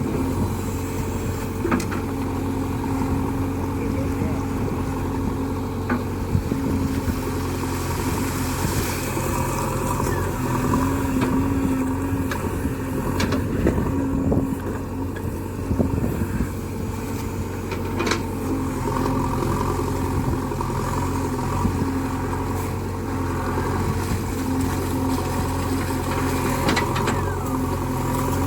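Diesel engine of a JCB backhoe loader running steadily while it works, with a few sharp knocks along the way.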